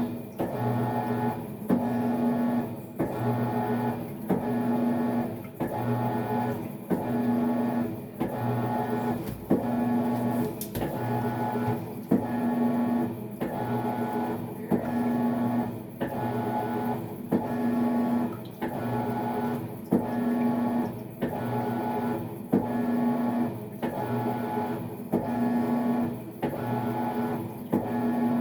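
Maytag MVWX655DW1 top-load washer agitating during its tub-clean cycle: the motor hums and reverses direction in an even rhythm, with a click about every 0.8 seconds at each stroke.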